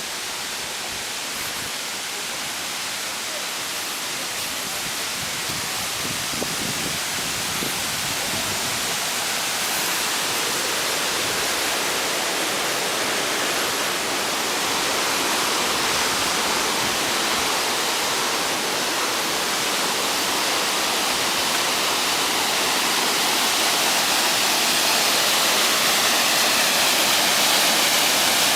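Ryūzu Falls, water rushing down the cascade in a steady roar that grows gradually louder.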